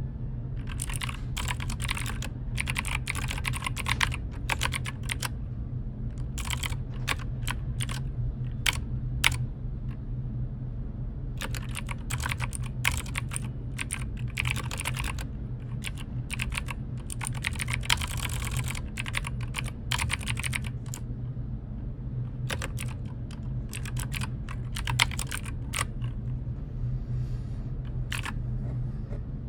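Typing on a computer keyboard in bursts of rapid key clicks with short pauses between them, over a steady low hum.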